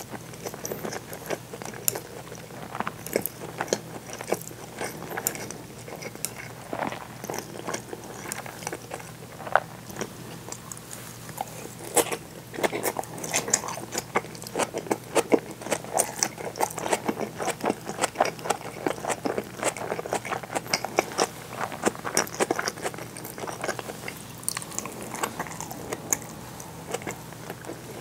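Close-miked chewing of seared bonito with rice and shredded cabbage: a dense run of small mouth clicks and crunches, busier from about halfway.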